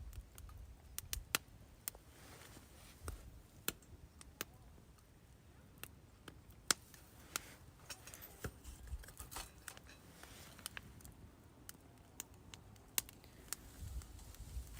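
Irregular small clicks and taps, like gear being handled, scattered over a faint low rumble.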